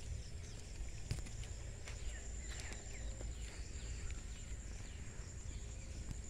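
Birds chirping in short, quick falling calls over a low steady rumble, with a continuous thin high-pitched whine throughout.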